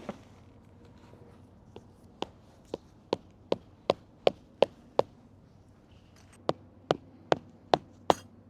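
Repeated hammer blows, about two and a half a second, in two runs with a short pause between: nine strikes, then five more.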